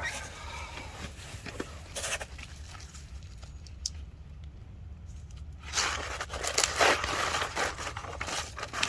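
Packaging being handled during an unboxing: a few sharp knocks early on, then loud rustling and crinkling from about six seconds in, over a steady low hum.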